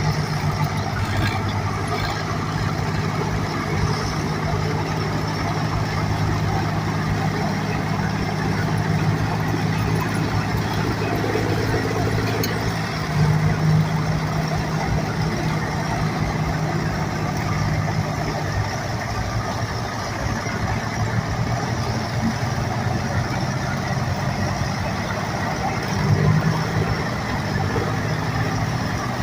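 A large engine running steadily at idle, briefly a little louder about halfway through and again near the end.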